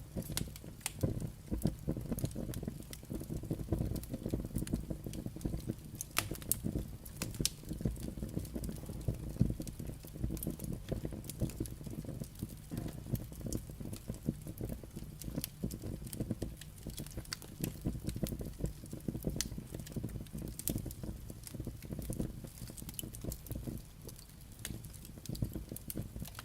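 Firewood burning and crackling, with many irregular sharp pops and snaps over a low, steady rushing noise.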